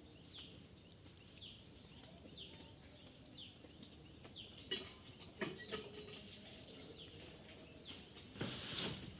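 A bird calling over and over with a short falling chirp, about once every three-quarters of a second. There are a few sharp clicks midway and a brief burst of rushing, rustling noise near the end.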